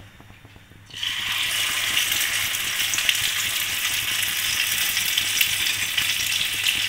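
Hot oil in a non-stick pan sizzling as a Maggi-noodle-coated patty is shallow-fried. The sizzle starts suddenly about a second in and then goes on steadily, with fine crackling.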